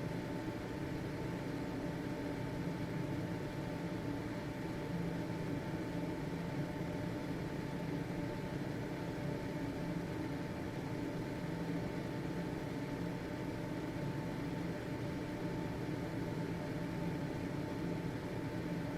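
Household ventilation fan running steadily: an even whirring hum with a faint constant whine from the motor.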